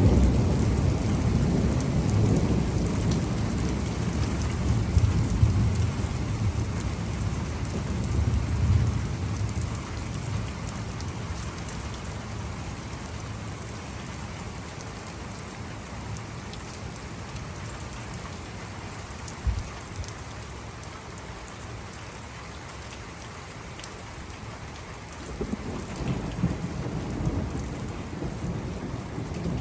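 Steady rain falling, with thunder: a long low roll of thunder dies away over the first ten seconds or so, and another rumble begins a few seconds before the end.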